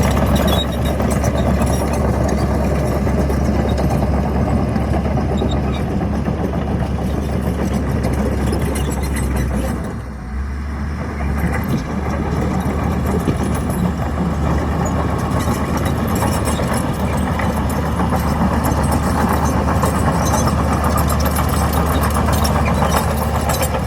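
Heavy earthmoving machine's diesel engine running steadily with a deep hum, easing off briefly about ten seconds in before picking up again.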